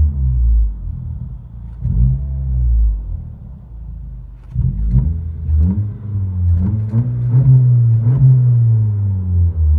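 2022 Honda Accord Sport's 2.0-litre turbo four-cylinder with an opened-up aftermarket exhaust, blipped through a series of quick revs that rise and fall in pitch, with a lull about three to four seconds in.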